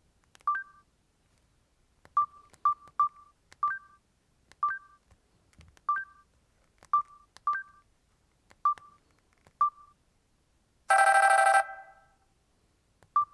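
Samsung GT-E3300 mobile phone key tones: about a dozen clicks, each followed by a short beep, at uneven intervals as keys are pressed. About 11 seconds in, a louder, fuller tone sounds for under a second, then one more click and beep.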